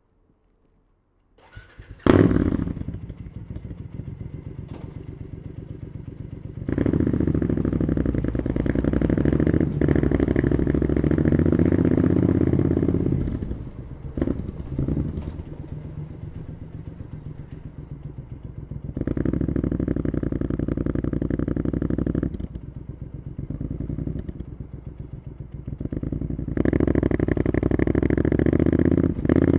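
Triumph Scrambler 900's parallel-twin engine with an Arrow exhaust starting up about two seconds in and idling for a few seconds, then pulling away under throttle. The exhaust note rises and drops back several times as the throttle is opened and closed.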